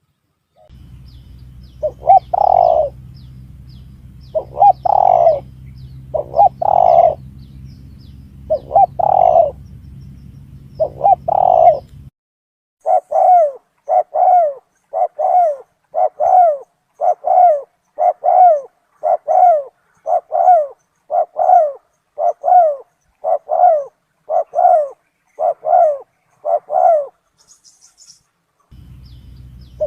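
Spotted doves cooing in a lure recording. First come five spaced coos over a low steady hum. Then, after a brief break, a cleaner run of coos at about one a second.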